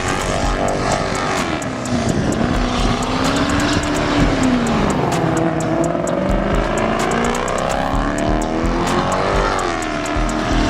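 Car engine revving hard, its pitch climbing and dropping several times as the throttle is worked, with sharp crackles and pops throughout.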